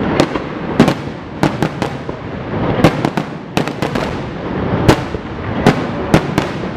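Fireworks finale: a rapid run of sharp shell bursts, about two a second, over a continuous rumble.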